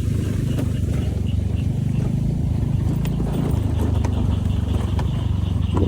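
Motor scooter engine running steadily while riding along a rough road.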